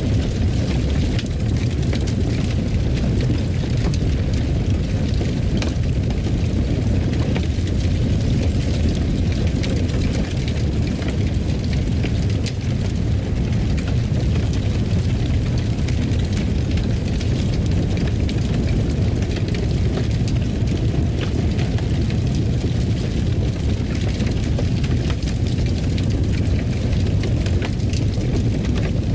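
Fireplace fire burning: a steady low rumble with frequent small crackles and pops.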